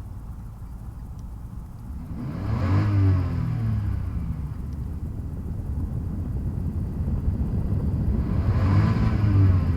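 Toyota 1G-GZE supercharged inline-six engine idling, then revved up and let fall back about three seconds in, and revved again near the end.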